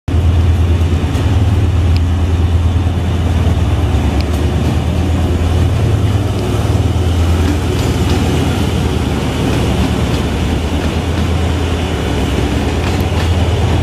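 Diesel locomotive of a passenger train passing close by, its engine drone loud and steady, with the coaches rolling past behind it and a few light clicks from the wheels.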